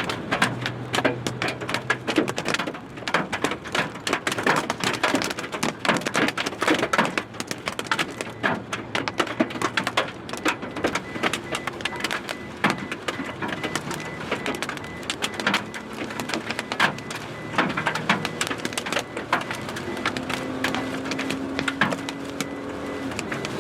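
Hailstones pelting a vehicle: a dense, irregular clatter of sharp impacts.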